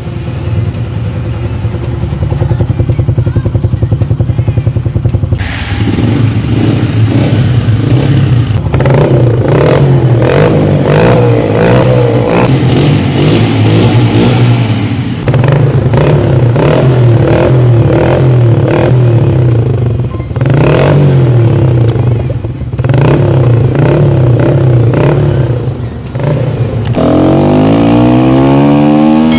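Motorcycle engine idling with a steady exhaust pulse, then revved repeatedly, the throttle opened and closed so the pitch rises and falls. Near the end it revs up in one long rise.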